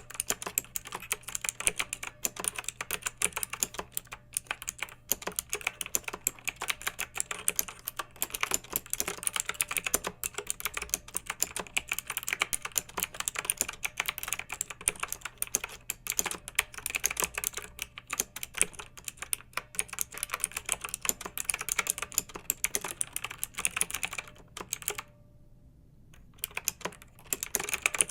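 Clicky mechanical keyboard being typed on in quick, irregular runs of keystrokes, with a pause of about two seconds near the end before typing resumes.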